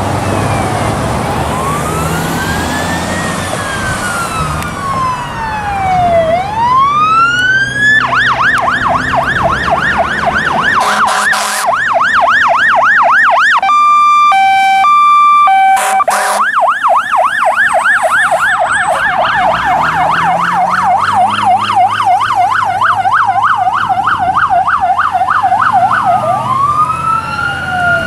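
Fire apparatus electronic sirens passing with an engine's rumble underneath. The siren runs as a slow wail for the first eight seconds or so, then switches to a fast yelp. Around the middle it breaks for a couple of seconds of steady horn blasts, then the yelp returns and gives way to the slow wail near the end.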